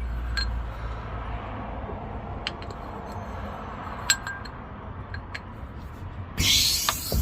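Light metal clinks and taps of tools and jack hardware being handled under the RV, with a short, loud rushing scrape about six and a half seconds in.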